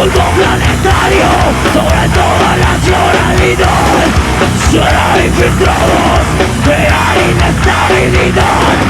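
Loud live heavy metal: distorted guitars, bass and drums playing continuously, with some yelled vocals.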